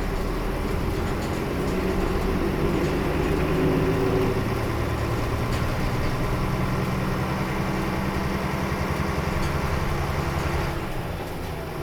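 Nissan Diesel KL-UA452KAN city bus's diesel engine running under way, its note climbing over the first four seconds as it pulls, then steady, and easing off near the end.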